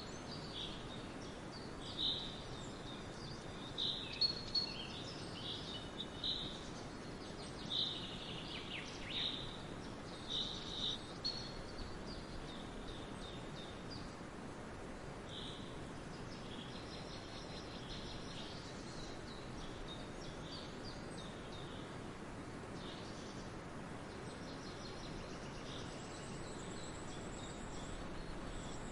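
Birds chirping in short calls over steady outdoor background noise, the calls coming thickly in the first half and thinning out later. A faint steady high buzz joins near the end.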